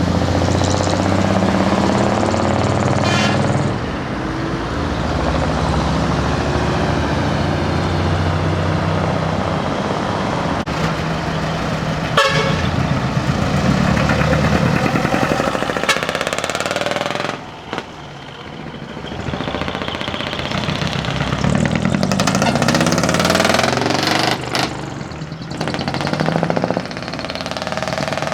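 Vehicles driving out one after another with their engines running, and horns sounding several times over the engine noise.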